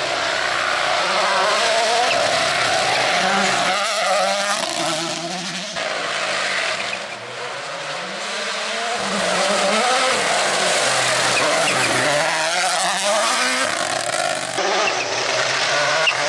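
Rally cars at full throttle on a special stage, their turbo engines revving up and dropping back through rapid gear changes, over a steady hiss of tyre and road noise.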